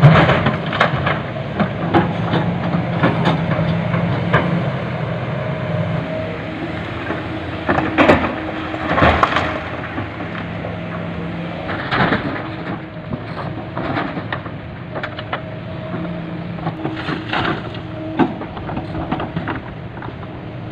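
A heavy diesel engine running steadily under irregular loud knocks and cracks of stone landing in a dump truck's steel bed, the loudest about a third and halfway through.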